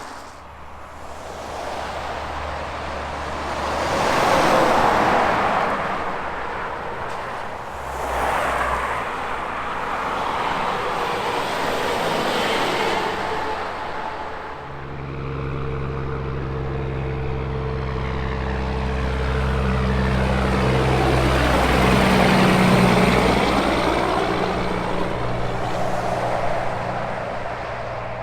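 Highway traffic passing: vehicles go by with tyre noise, the first loudest about four seconds in. From about fifteen seconds a semi truck's diesel engine drones in, loudest a little past twenty seconds as it passes, its pitch dropping as it goes by.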